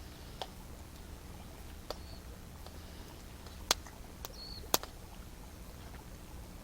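Campfire of burning wood crackling, with a few sharp, scattered pops, the two loudest a little past the middle. A small bird chirps briefly twice.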